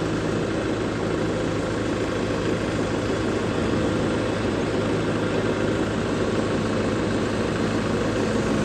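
Kubota tractor's diesel engine running steadily with an even, unchanging hum.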